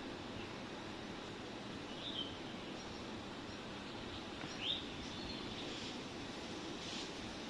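Wild birds calling: a few short, sharp calls that sweep upward, about two seconds in and again, loudest, near five seconds, with a few fainter calls between, over a steady hiss of background noise.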